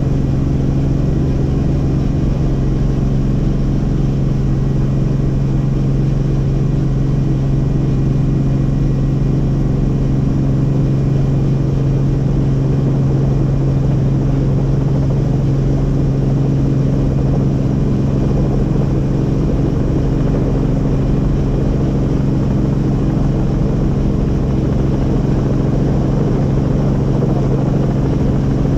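Helicopter in steady flight: an even, unchanging rotor and engine sound with a strong low hum.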